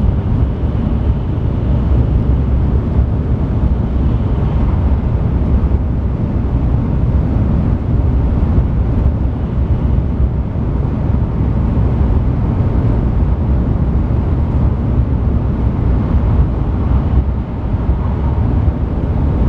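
Shinkansen bullet train running, heard inside the passenger cabin as a steady low rumble.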